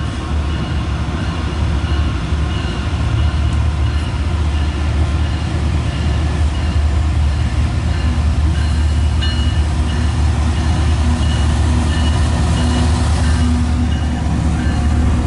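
Empty coal train passing close by, its empty coal cars rolling with a loud, steady rumble and a faint high tone coming and going.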